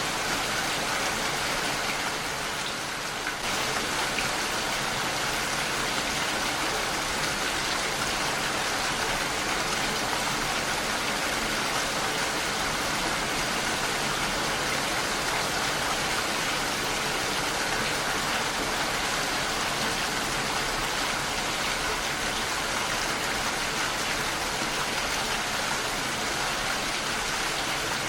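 Heavy rain falling steadily and pattering on a window pane, briefly a little softer about two to three seconds in.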